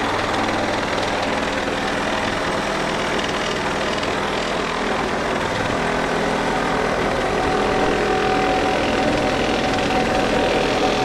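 Reciprocating saw (sawzall) running steadily as it cuts through wooden deck joists.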